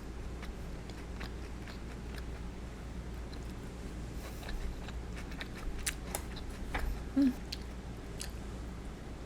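Close-up mouth sounds of eating fried chicken karaage: chewing and biting with scattered small crisp clicks, growing busier partway through, and a short low hum about seven seconds in.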